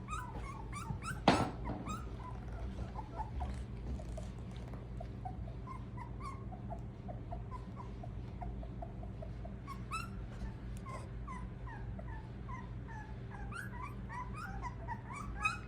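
A litter of very young puppies, eyes just open, squeaking and whimpering in many short high-pitched cries, several at once and busier near the end. A sharp knock about a second in, over a steady low hum.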